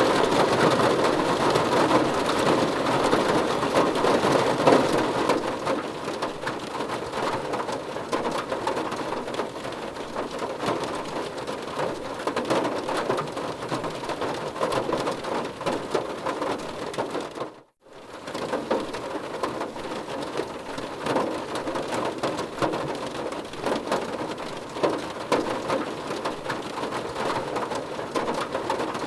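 Heavy rain falling steadily, with dense pattering drops striking a surface. It is a little louder in the first few seconds and cuts out for a moment about two-thirds of the way through.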